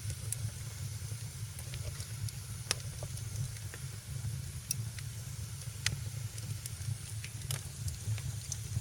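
Wood fire in a fireplace crackling: scattered sharp pops at irregular intervals over a steady low rumble and a faint hiss.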